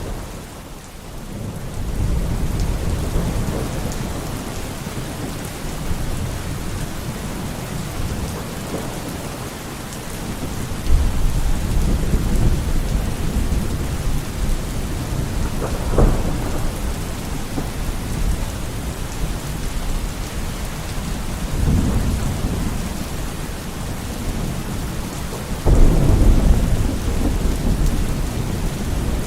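Steady rain with rolls of thunder: low rumbles swell up several times, with a sharp crack about halfway and the loudest roll near the end.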